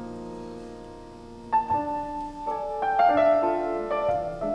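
Piano music: a held chord dies away, then about one and a half seconds in a melody of struck notes begins over changing chords.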